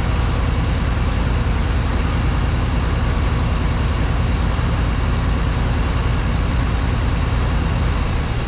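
Heavy farm machinery engine running steadily at constant speed, a continuous deep rumble with no change in pitch.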